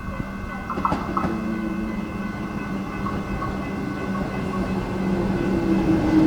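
Electric suburban train running on the line, with a steady rumble and several steady tones. A few sharp clicks come about a second in, and it grows louder toward the end.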